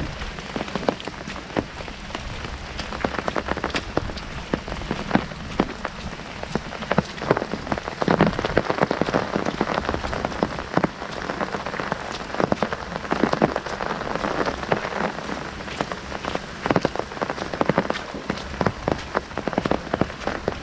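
Heavy rain drumming on an umbrella overhead: a dense, uneven patter of sharp drop impacts over a steady hiss of falling rain.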